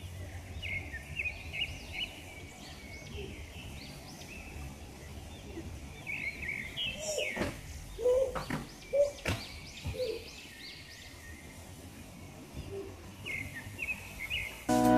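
Small birds chirping in runs of short, repeated high chirps over a steady low background hum, with a few sharp knocks and lower calls midway.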